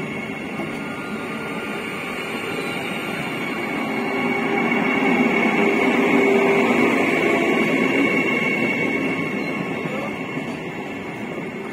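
Vande Bharat Express electric trainset, whose traction motors are spread under the coaches, passing slowly close by: a rumble of wheels on rail with a steady high electric whine. It swells to its loudest about halfway through and then eases off.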